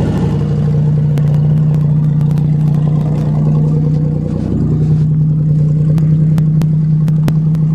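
1990 Buick Century's 3.3-litre V6 running steadily at idle after a winter cold start. Its note dips and shifts slightly about four and a half seconds in, and a few sharp clicks sound in the second half.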